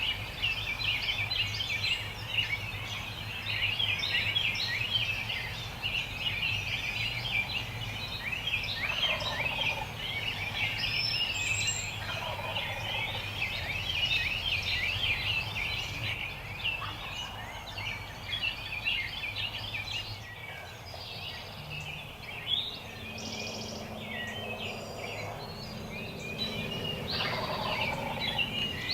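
Eastern wild turkey gobbles, each about a second long, coming several times: near a third of the way in, again shortly after, and twice near the end. Constant dense high chirping runs underneath.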